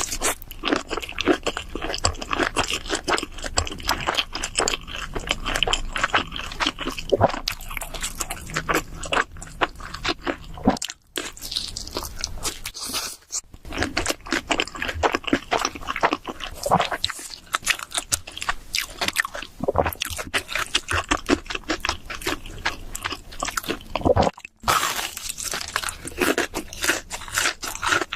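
Close-miked chewing and crunching of cheese seafood pizza: continuous irregular crunchy bites and chewing, broken by a few brief gaps.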